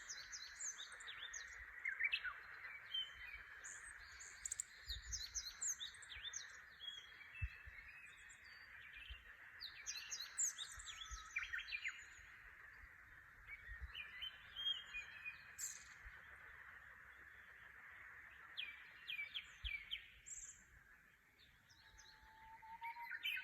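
Many wild birds singing in a dawn chorus of quick, high chirps and whistled phrases. A steady, subdued chorus of frogs just starting to call from flooded rice paddies runs beneath and thins out near the end.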